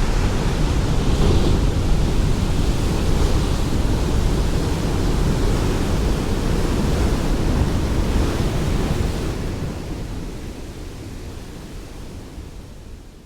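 Ocean surf: a steady wash of breaking waves with a few swells rising and falling. The sound fades out over the last few seconds.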